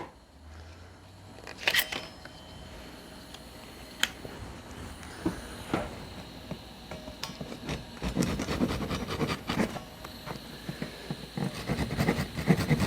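Japanese pull saw cutting through the holding tabs that keep CNC-cut wooden box pieces in the board. Scattered clicks and knocks at first, then a denser run of irregular rasping strokes over the last few seconds.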